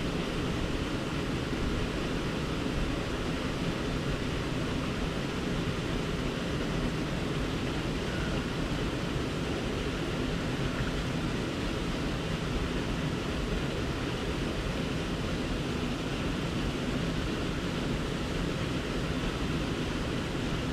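Steady rush of running water, unbroken and even throughout.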